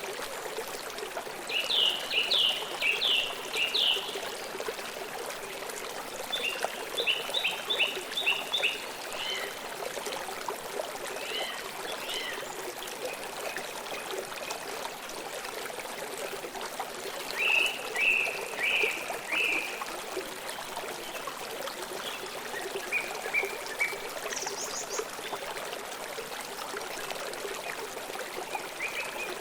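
Steady rushing and trickling of a flowing stream, with a songbird repeating short bursts of rapid chirps several times.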